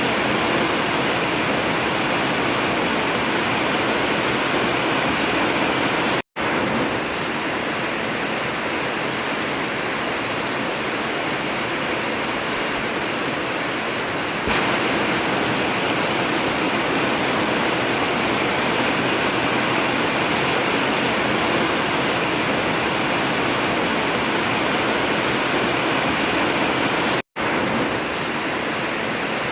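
Heavy rain falling steadily on an old tin (zinc) metal roof, a dense even hiss of drops. The sound cuts out for an instant twice, where the recording is spliced.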